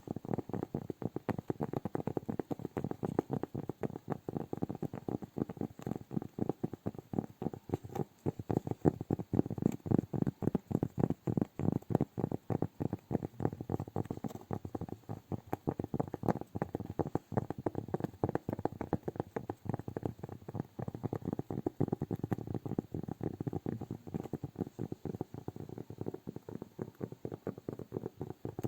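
Hands making a continuous run of light taps and soft clicks, many a second, close up.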